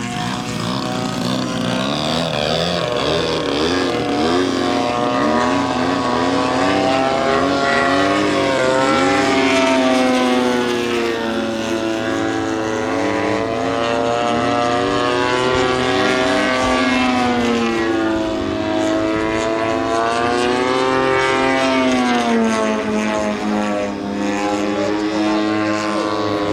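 Radio-controlled model airplane engine and propeller running in flight. The engine note rises and falls steadily as the plane passes and manoeuvres, with big pitch swoops near the middle and again about two-thirds of the way through.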